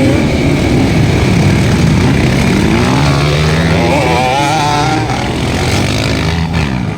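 Several motocross dirt bike engines racing, revving up and down so that their pitches rise and fall.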